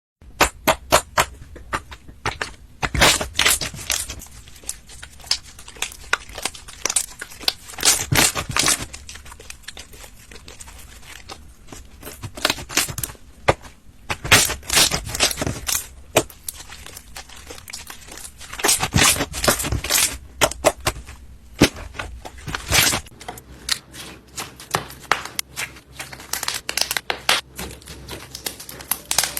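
Slime being squeezed and stretched, giving uneven bursts of crackling, popping clicks.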